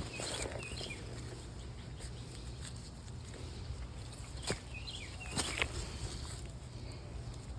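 A small bird chirping in short groups of quick notes, three times, over the crunch of footsteps on creek stones, with a few sharp clicks of stone on stone about halfway through.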